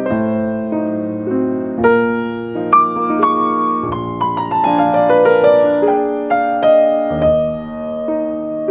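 Soft background piano music: sustained chords under a slow melody that steps downward through the middle.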